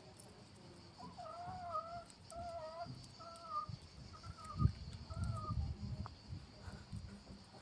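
A hen calling: about five short, wavering clucks in a row, roughly one every three-quarters of a second, followed by low thumps and rustling.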